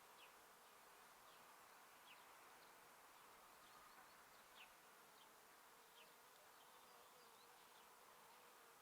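Faint, steady buzzing of bees. Short, high chirps that fall quickly in pitch come now and then, about one a second.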